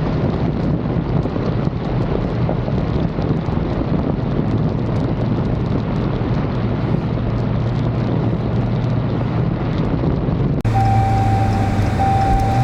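Dodge Charger Scat Pack's 6.4-litre V8 droning under a loud rush of wind buffeting the microphone while driving. About ten and a half seconds in the sound cuts to a steadier engine hum with a repeating electronic chime beeping on and off.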